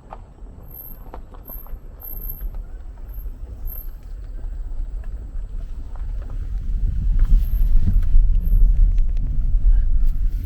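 Low rumble of a vehicle on the move, growing louder about two-thirds of the way in, with scattered light clicks and knocks.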